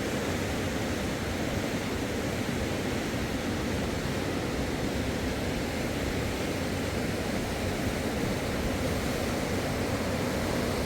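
Steady rushing of a flowing river, an even noise that holds at the same level throughout.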